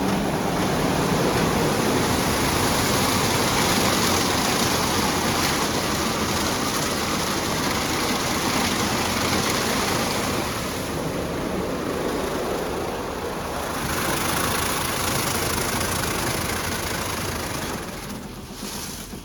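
WashTec automatic car wash working over a car, heard from inside the car: a loud, steady rush of water spray and machinery against the body, easing off near the end.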